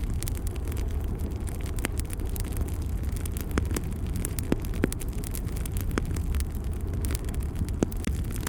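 Fire burning in a fireplace: a steady low roar with scattered crackles and pops.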